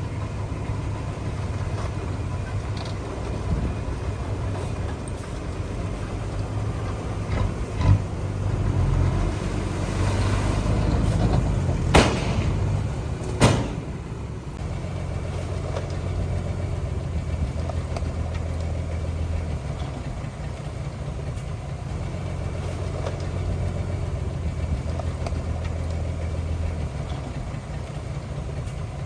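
Heavy diesel engine of earthmoving machinery running steadily, swelling a little partway through. Two sharp knocks sound near the middle, about a second and a half apart.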